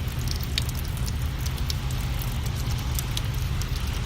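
Rain falling, with scattered sharp drop ticks over a steady low rumble.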